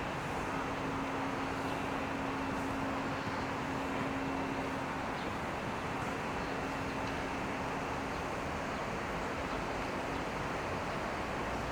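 Steady outdoor traffic and street noise, with a low engine hum that fades out about eight seconds in.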